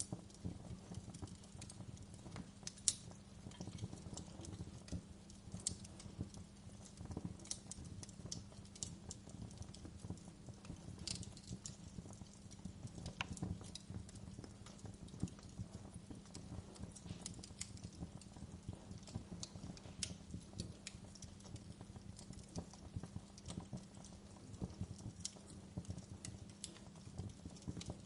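Wood fire crackling: a dense run of small snaps and pops, with a sharper pop about three seconds in, over a steady low rumble.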